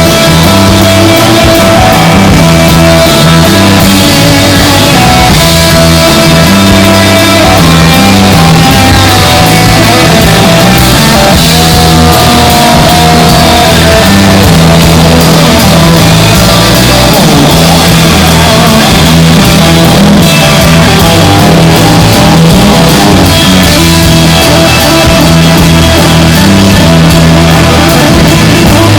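A rock band playing loudly: guitar over a bass line that steps between notes about once a second.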